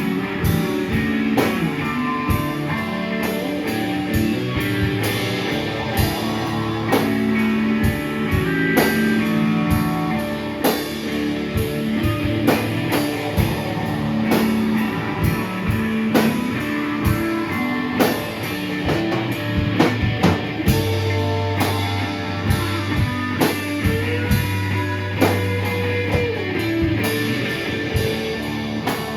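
Live rock band playing guitar over a drum kit, with steady drum hits throughout.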